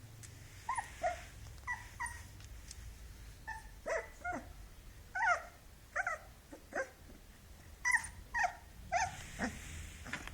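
Boxer puppy whimpering and yipping: a string of about a dozen short, high cries that each fall in pitch, coming irregularly.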